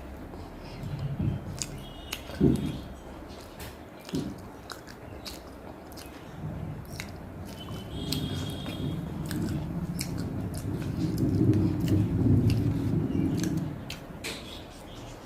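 Close-miked chewing and eating of a rice meal, with wet mouth clicks and smacks. The chewing grows louder and denser from about eight seconds in, then eases off near the end.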